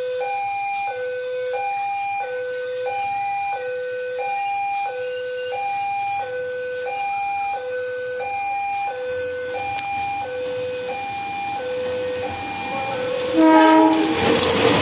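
Level-crossing warning alarm sounding a steady two-tone, high-low signal that alternates about once a second. Near the end the approaching train sounds its horn briefly, and the loud rushing rumble of the train reaching the crossing takes over.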